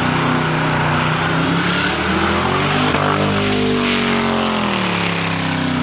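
Car engine held at high revs during a burnout, tyres spinning and squealing. The revs climb about halfway through and fall back near the end.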